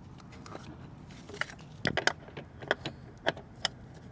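Metal parts of a scooter variator clicking and clinking as the assembly is fitted onto the shaft: a cluster of sharp clacks about two seconds in, then single clicks at intervals.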